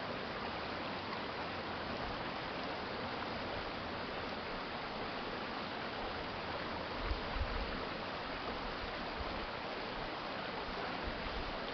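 A city stream flowing steadily, an even rushing of water. About seven seconds in, a brief low thump or rumble rises above it twice in quick succession.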